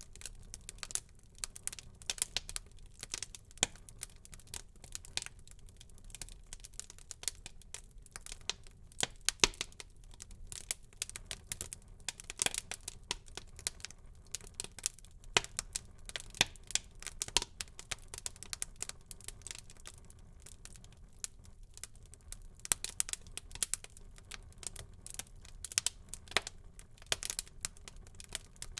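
Wood fire burning in a fireplace, crackling and popping with many sharp, irregular snaps over a soft, steady low rumble of the flames.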